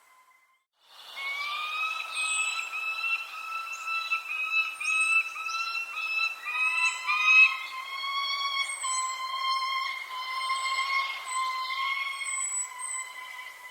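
Birds chirping, with short high falling chirps scattered over a steady whistling tone that drops slightly in pitch about halfway through. The sound starts after about a second of silence.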